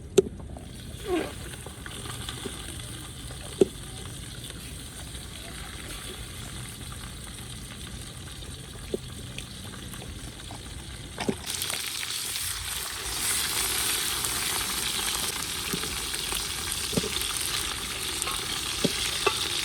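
Food frying in oil in a pot over a wood fire: a steady sizzling hiss that gets louder about halfway through, with a few sharp clicks.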